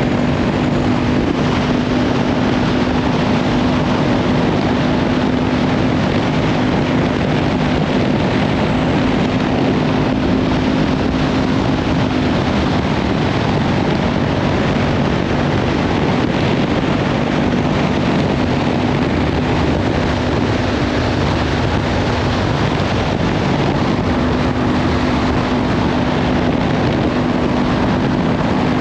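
Kawasaki Ninja 500 parallel-twin with a Leovince slip-on exhaust running at a steady cruising speed, mostly buried under heavy wind noise on the microphone.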